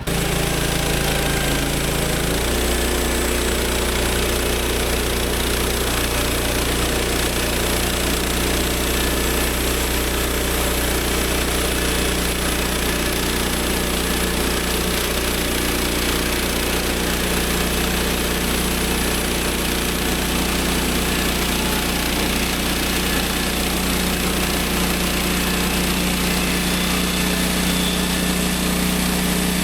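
Gasoline engine of a portable band sawmill running steadily under load while taking a cut through a cedar log. Its pitch shifts slightly about two seconds in.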